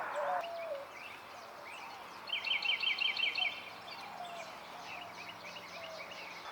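Wild birds calling. A fast, chattering run of high notes lasts about a second, starting about two seconds in, with scattered faint chirps around it. A low cooing at the start fits a mourning dove.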